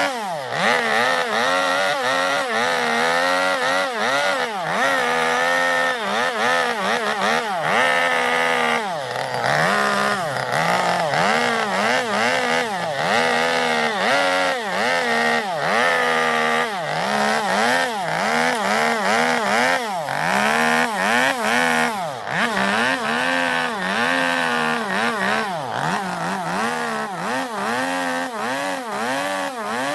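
Two-stroke chainsaw carving into zelkova wood, its engine pitch rising and falling over and over as the bar bites into the cut and eases off.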